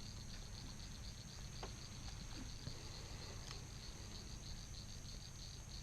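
Insects singing in the surrounding marsh: a high chirp repeating evenly at about five a second with a steady higher trill over it, above a low steady hum.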